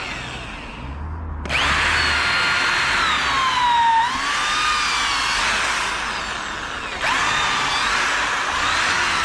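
Electric power tool cutting into a wooden log to hollow it into a beehive. Its whine starts abruptly about a second and a half in, sags in pitch under load just before four seconds and picks back up, then jumps louder again near seven seconds.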